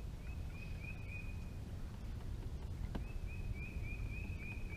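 A songbird singing two runs of short, rising whistled notes, about four a second, the second run starting about three seconds in. A single sharp click lands just before the second run, over a low steady rumble.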